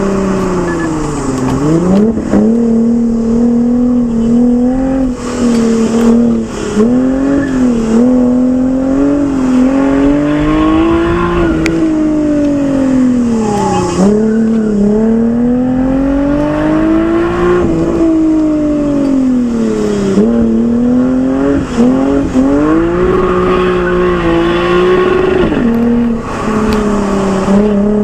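Lexus IS with an aftermarket Fi exhaust, its engine revving up and falling back over and over as the car accelerates and lifts off, the exhaust note climbing and dropping every few seconds.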